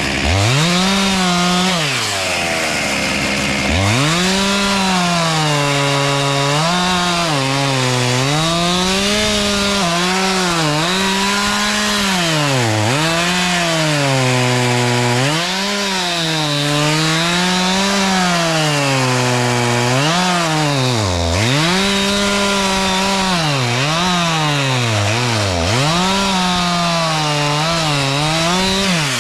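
Chainsaw cutting wood, its engine pitch repeatedly climbing to full speed and sagging as it works through the cut, with a few brief drops close to idle.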